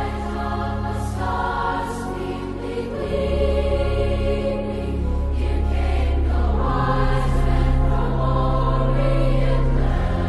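Choral music: a choir singing slow, sustained chords over held low bass notes.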